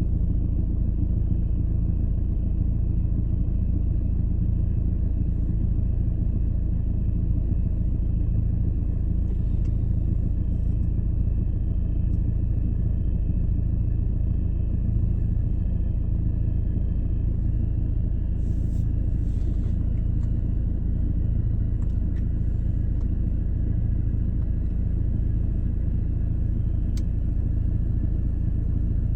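Steady low rumble inside the cabin of a Mercedes-Benz W212 E250 CDI, with a faint hiss from behind the dashboard.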